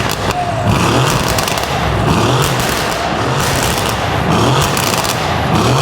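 Mercedes-AMG C63 S twin-turbo V8, straight-piped with aftermarket downpipes, revved hard over and over with short crackles between the revs. It is really loud.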